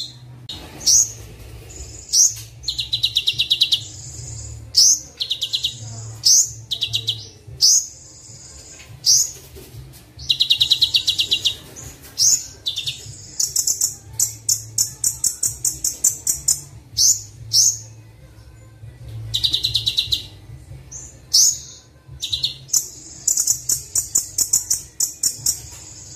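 Recorded sunbird (kolibri wulung) song with mixed filler birdsong, played as a training track: short high chirps, fast buzzy trills and rapid strings of ticks in phrases about a second long, with brief gaps between them. A steady low hum runs beneath.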